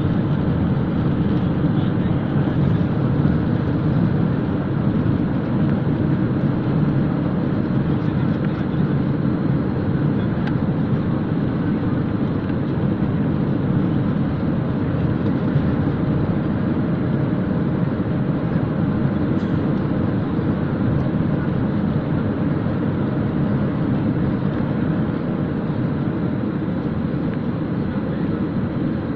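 Steady drone of a passenger plane's engines and rushing air, heard from inside the cabin.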